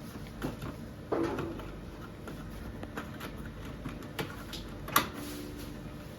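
Scattered clicks and light knocks of parts and tools being handled, with a thud just after a second in and a sharper knock about five seconds in that rings briefly.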